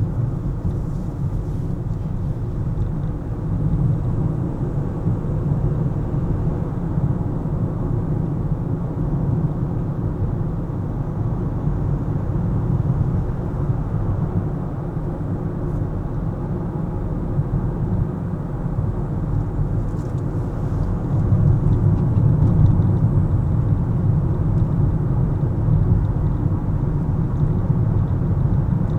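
Steady low rumble of a car driving on city roads: engine and tyre noise, growing somewhat louder for the last several seconds.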